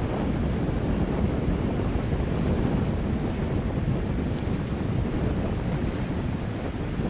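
Wind buffeting the camera's built-in microphone, a steady gusting rumble.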